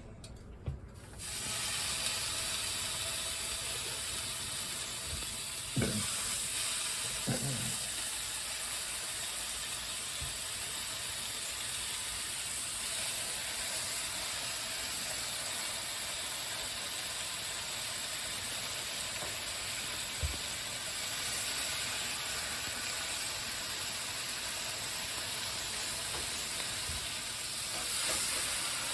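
Sliced bacon sizzling in a hot frying pan: a steady, even hiss that starts suddenly about a second in, with a few short knocks along the way.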